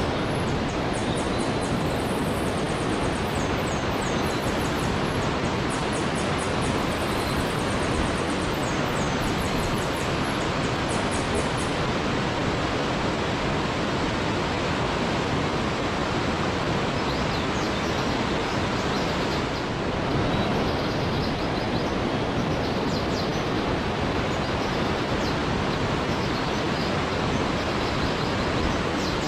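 Waterfall rushing with a steady, even roar of falling water. Rapid, very high-pitched chirps run over it for the first twelve seconds or so, and fainter high chirps return in the second half.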